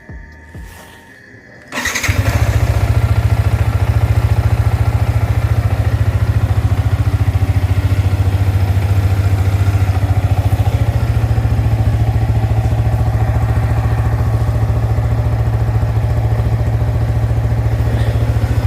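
Motorcycle engine starting about two seconds in, then running steadily with a fast, even pulse.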